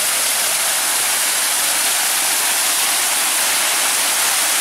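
Loud, steady rushing of a waterfall, water pouring and splashing without a break.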